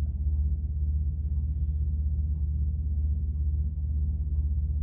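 Steady low hum, with faint light handling noises as yarn is tied into a knot.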